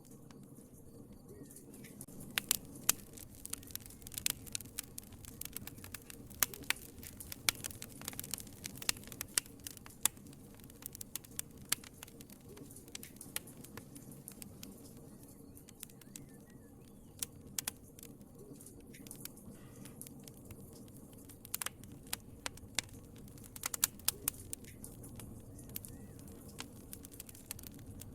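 Wood fire crackling: irregular sharp pops and snaps, some in quick clusters, over a low steady rumble of flames.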